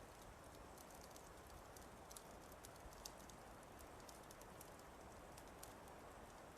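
Faint fireplace crackle: scattered sharp pops and ticks, a few a second, over a steady low hiss.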